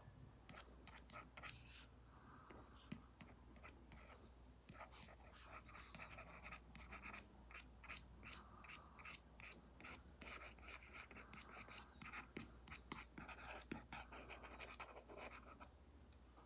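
Faint scratching of an Apple Pencil Pro tip drawing on an iPad with a paper-like matte screen protector: a quick run of short strokes and taps, thickest through the middle.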